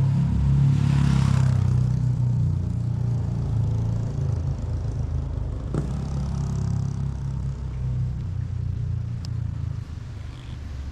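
A motor vehicle's engine running close by on the street with a steady low rumble, loudest in the first two seconds and slowly easing off. A short knock about six seconds in.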